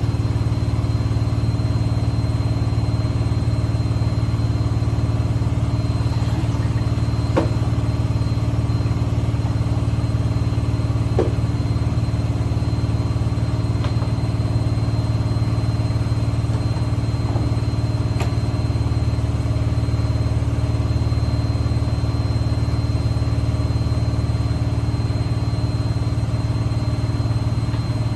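Privileg front-loading washing machine spinning at a steady high speed: an even motor and drum hum with a faint high whine and a few faint clicks.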